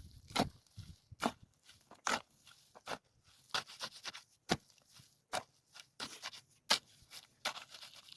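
Irregular sharp knocks and scrapes, one or two a second, some louder than others, as in hand work on a building site with tools, earth or wood.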